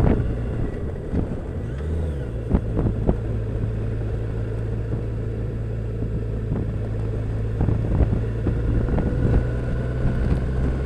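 Yamaha FJR1300 sport-touring motorcycle's inline-four engine running steadily at cruising speed, with wind and road noise and a few brief knocks.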